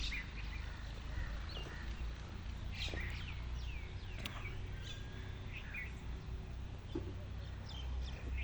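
Small birds chirping: a scattering of short, downward-sweeping calls, over a steady low rumble.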